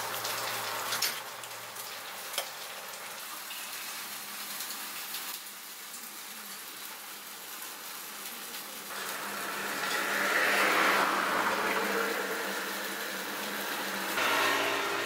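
Steady sizzling hiss of takoyaki frying on a griddle, with two sharp clicks in the first few seconds. The sizzle grows louder about nine seconds in.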